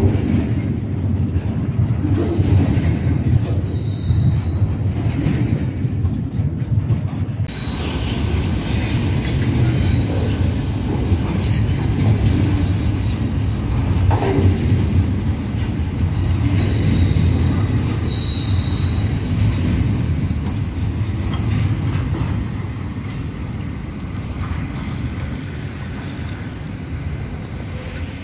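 Double-stack intermodal freight train's container well cars rolling past: a steady rumble of steel wheels on rail, with brief high-pitched wheel squeals now and then. The sound fades near the end as the train moves away.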